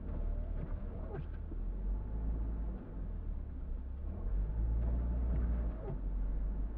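Car driving in snow: a steady low rumble of engine and tyres. Twice, about a second in and again around five seconds, a short wavering squeak rides over it.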